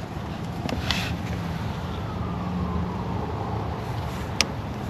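Steady low background rumble with a faint whine falling in pitch, like a vehicle going past, and a single sharp click near the end.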